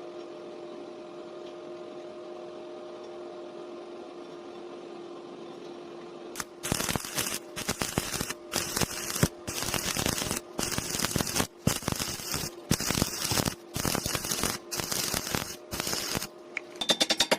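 A steady electrical hum, then, about six seconds in, a welding arc crackling in about ten short runs of half a second to a second each, broken by brief gaps.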